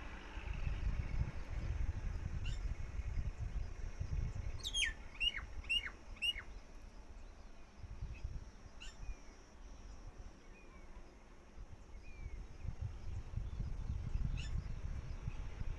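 A bird calling: a quick run of four falling whistled notes about five seconds in, then a few fainter single chirps, over a low rumble.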